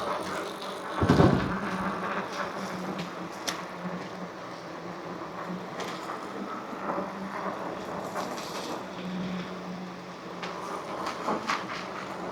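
Electric bike being ridden, heard from the rider's position: a steady motor hum under road and tyre noise with small rattles and clicks, and one loud low thump about a second in.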